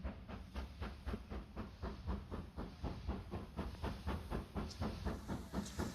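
Steam locomotive working past, its exhaust chuffing in an even rhythm of about five beats a second over a low rumble.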